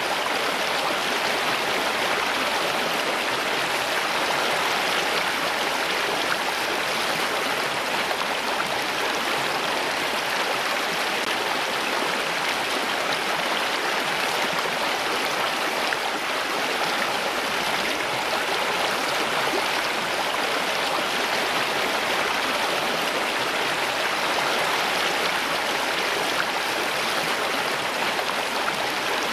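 Running water of a stream or small waterfall, a steady, even rush without breaks.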